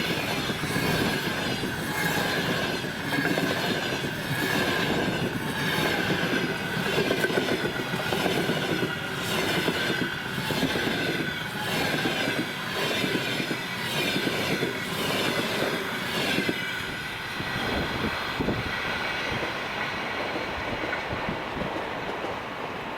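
Passenger train passing at speed, its wheels clattering over rail joints in a regular rhythm with a steady high whine above. About 17 s in, the clatter stops and the sound thins out and fades.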